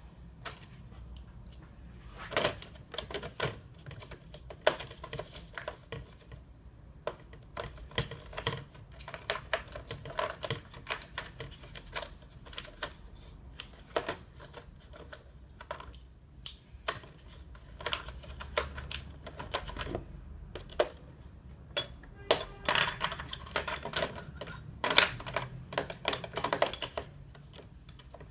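Irregular sharp clicks and knocks of hand work with parts and tools, some close together in quick runs, with a busier run of clicks a little before the end.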